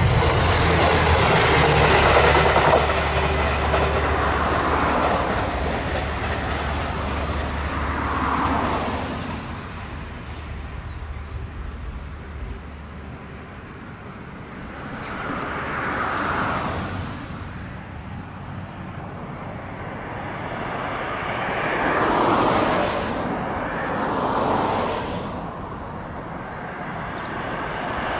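Train running along the line, with a steady low engine drone that fades out about halfway through; later there are several swells of passing noise that rise and fall.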